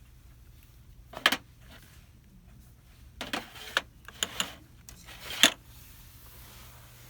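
Several short bursts of handling noise, rustling and knocking as things are picked up or moved, four times over a steady low hum; the loudest come about a second in and past the middle.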